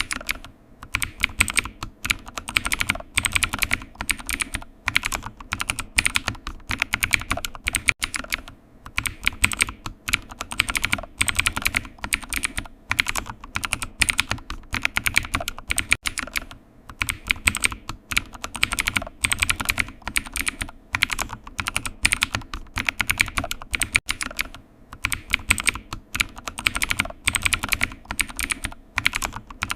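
Typing on a computer keyboard: rapid key clicks in runs of a second or two, with brief pauses between them.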